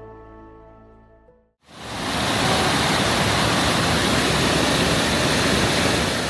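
Background music fades out. About a second and a half in, a loud, steady rush of falling water takes over, as from a small waterfall.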